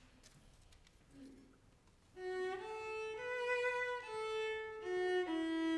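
A violin begins playing a slow hymn melody about two seconds in, in sustained, smoothly connected notes, after a short, near-quiet pause.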